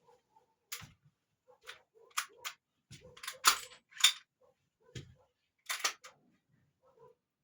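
A string of sharp metallic clicks and clacks, about ten spread unevenly, the two loudest close together near the middle: an FNX-45 pistol being handled between primer-only test shots, its slide worked and the primed 45 ACP case handled.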